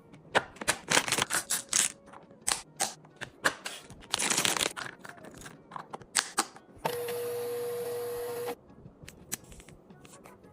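Drinks and food packages being handled and set onto mini-fridge shelves: a quick run of clicks, taps and clatters. There is a brief rustling burst about four seconds in, then a steady hiss with a hum for about a second and a half.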